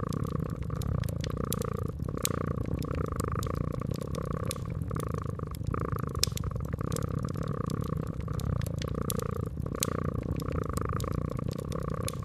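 Domestic cat purring steadily, the purr swelling and easing about once a second, with the irregular sharp pops and crackles of a wood fire.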